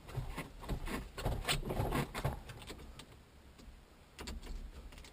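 Irregular knocks, clicks and rustling from hands-on handling noise, busiest in the first two and a half seconds and fainter after that.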